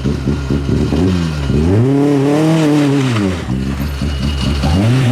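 Rally car engine revving hard on a stage, the revs rising and falling several times as the driver works the throttle and gears, with one long climb and drop in the middle.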